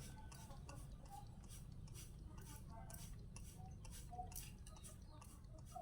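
Faint, irregular ticking clicks over a low, steady hum.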